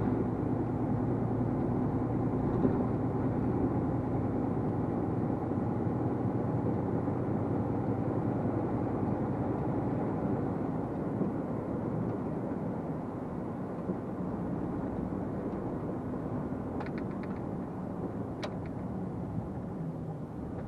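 Heavily loaded truck's engine pulling steadily at about 34 mph, heard from inside the cab as a continuous engine drone with road noise, getting a little quieter toward the end. A couple of faint clicks come near the end.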